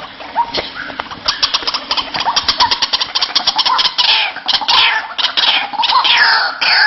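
White-breasted waterhen calls played as a lure: a fast run of clicking notes, then from about four seconds in a string of repeated calls falling in pitch, about two a second.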